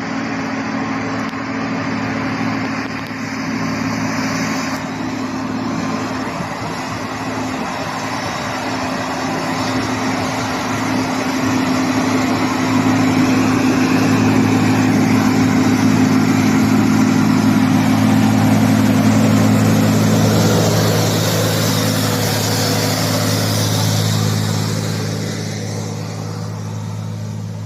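Heavy diesel truck engine running at steady revs, growing louder as the truck approaches, nearest about twenty seconds in with a rush of tyre and air noise, then fading as it moves away.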